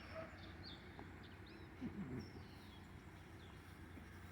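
Faint wild birdsong: many short, high chirps and quick sliding notes scattered throughout, with a brief low sliding sound about two seconds in.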